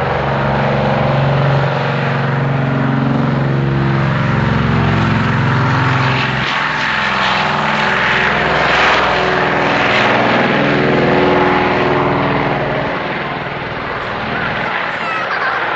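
Propeller airplane engine running steadily with a low drone, its pitch shifting about six seconds in.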